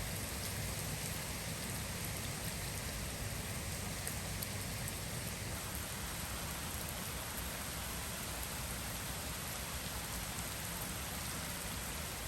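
Heavy typhoon rain falling steadily, an even, unbroken hiss.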